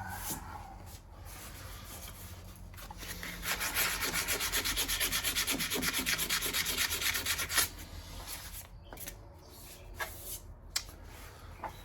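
Hand sanding on the car's metal bodywork: quick, even back-and-forth scraping strokes for about four seconds, starting a few seconds in, with a few scattered clicks before and after.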